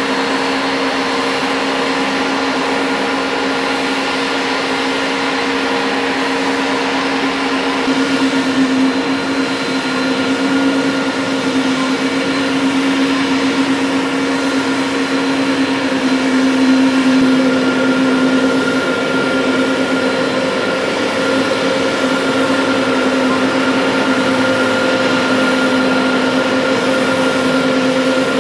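Jet engines of a Boeing 777-200 running with a steady, loud whine and rush. A few fixed tones hold over the noise, and the sound swells slightly partway through.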